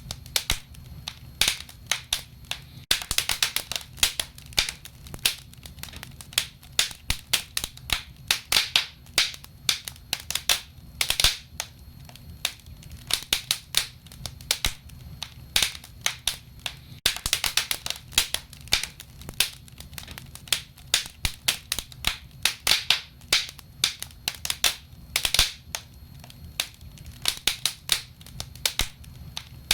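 Wood fire burning in a stove, crackling and popping with frequent irregular sharp snaps over a low, steady rumble of flame.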